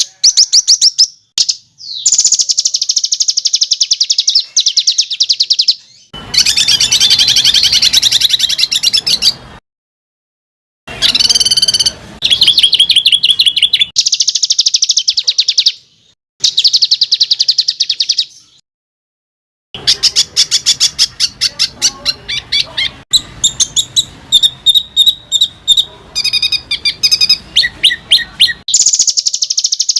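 Small songbird singing rapid, tight trills of harsh repeated notes, the rough 'roll' and 'shot' phrases used to train competition songbirds. The song comes in bursts a few seconds long, with three short silent breaks.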